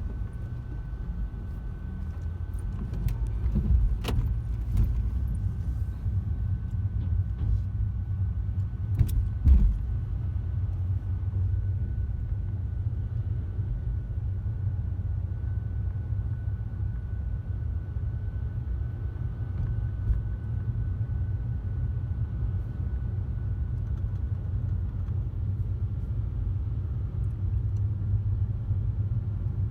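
Steady low rumble of vehicles driving off a car ferry, with two sharp clunks about four and nine seconds in and a faint steady high whine above it.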